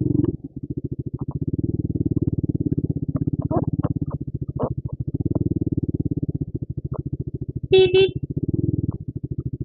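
Bajaj Pulsar RS200's single-cylinder engine idling with a rapid, even pulse. About 8 seconds in, a horn beeps twice in quick succession.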